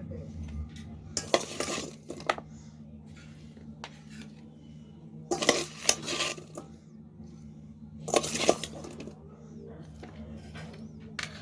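A utensil clinking and scraping against a dish in three short bouts, a few seconds apart, over a steady low hum.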